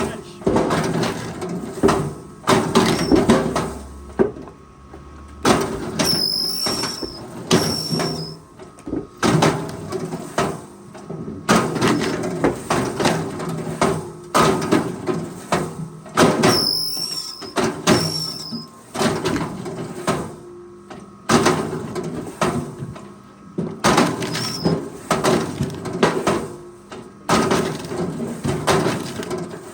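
Machinery working: repeated bouts of knocking and creaking, pausing briefly every second or two, with a few short high squeals about six and seventeen seconds in.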